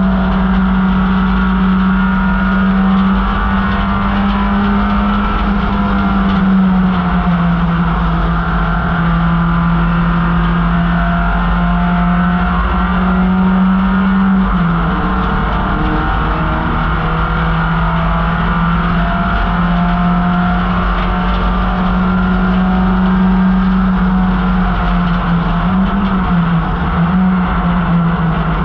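1968 MGB GT race car's four-cylinder engine running hard at high revs, a loud steady note that drops slightly and climbs back a few times as it shifts or lifts, over steady wind and road noise.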